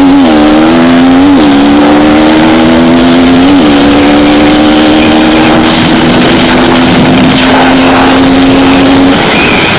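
KTM Duke 200 single-cylinder engine at full throttle, pitch climbing and dropping with quick upshifts about a second in and again about three and a half seconds in, then holding an almost steady high note until it fades out near the end. Heavy wind blast on the microphone runs under it.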